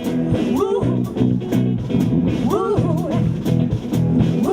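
Country rock band playing live: electric guitar lines with bending notes over a drum kit keeping a steady beat.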